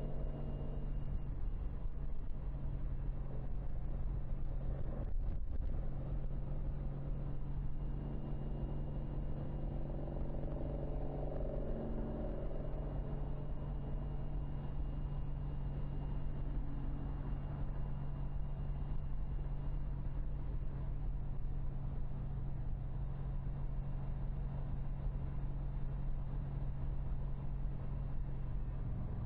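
Motorcycle engine running at a steady cruise while riding: a constant low drone with road and wind noise. There is a brief knock about five seconds in.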